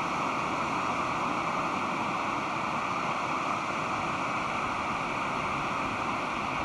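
Pacific Ocean surf washing onto the beach as a steady, even rush of breaking waves.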